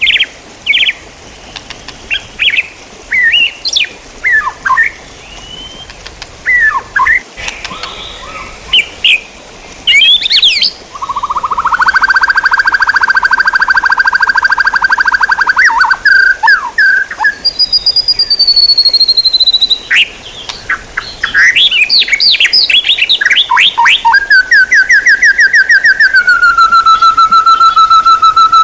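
Songbird singing loudly: varied short whistles and chirps, then a long, very rapid trill held for several seconds, a falling high whistle, and a second rapid trill that steps down in pitch near the end.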